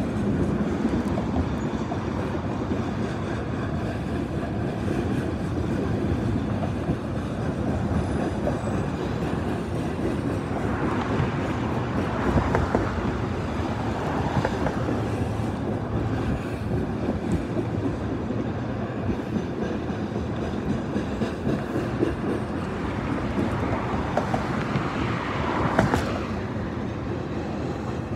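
Train rolling past with a steady rumble of railcars and scattered clanks from the wheels and couplings.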